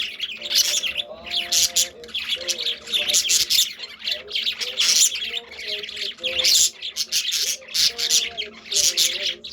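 Several budgerigars chattering continuously with rapid chirps and squawks, over a radio faintly playing Christmas music.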